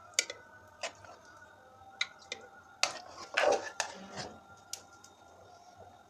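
A series of sharp clicks and knocks from small objects being handled, with a short, louder clatter about three and a half seconds in, over a faint steady hum.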